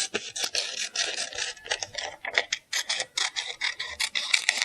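Scissors cutting colored paper: a quick, irregular run of crisp snips and paper rustle.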